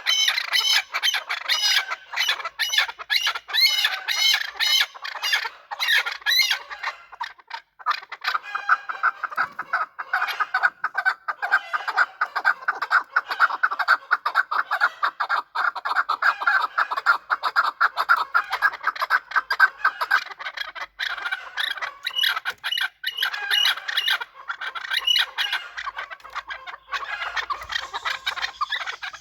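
Chukar partridges calling: a long run of fast, repeated clucking notes with no break. For the first several seconds the notes are sharper and higher, then they run together into a dense, fast chatter.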